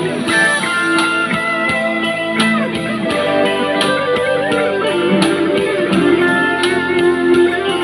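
Guitar music: a guitar plays a melodic line over held chords, some notes bending and sliding in pitch.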